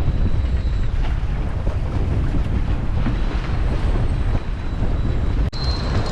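Strong wind buffeting the microphone over the low rumble of a boat running on choppy water, steady throughout with one brief break near the end.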